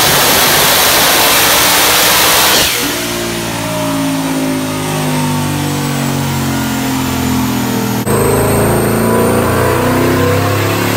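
Ford Mustang GT's 5.0 Coyote V8 at full throttle on a chassis dyno. About three seconds in it lifts off and the engine note drops and winds down. Near the end the sound cuts to another Mustang's engine running loudly on the dyno.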